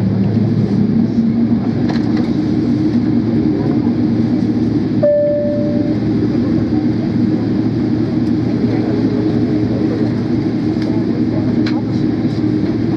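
Steady rumble and hum of a Boeing 777-300's engines and airflow heard inside the passenger cabin, with a single short high tone about five seconds in.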